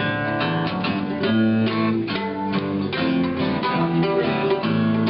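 Acoustic guitar strumming chords in a country style over low bass notes that change with each chord, with a steady rhythm.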